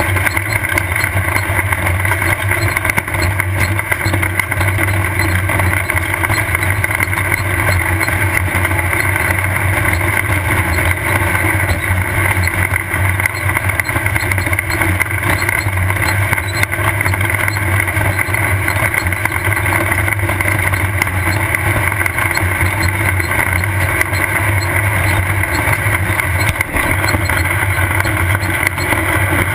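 Off-road race car engine running steadily under way, heard from on board the car.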